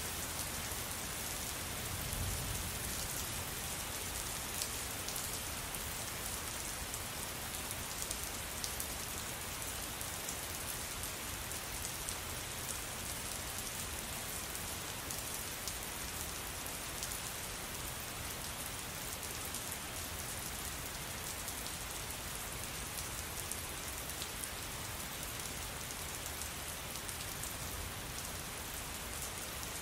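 Steady, heavy rain falling, with a dense patter of individual drops hitting a surface and a brief low rumble about two seconds in.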